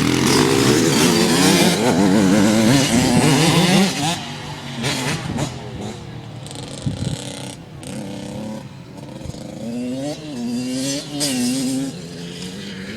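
Dirt bike engines revving: one loud and close for about the first four seconds, its pitch wavering up and down, then quieter and farther off, rising and falling as it is throttled.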